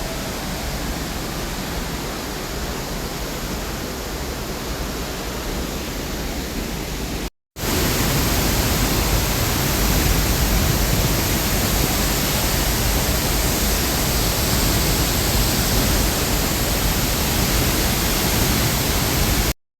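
Steady rushing of La Fortuna waterfall, an even noise with no tone in it. It breaks off briefly about seven seconds in and comes back louder.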